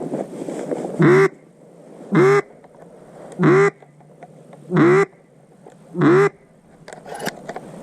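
Five loud, nasal duck quacks, evenly spaced about a second and a quarter apart, with a steady low hiss between them.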